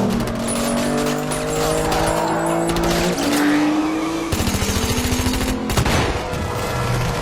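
Film car-chase sound mix: several car engines revving hard, their pitch climbing and then dropping back with gear changes about three seconds in and again a second later, over rapid bursts of automatic gunfire.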